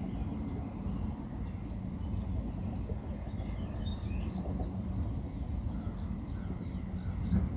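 Wind rumbling on the microphone outdoors, with faint bird chirps from about three seconds in and a brief bump near the end.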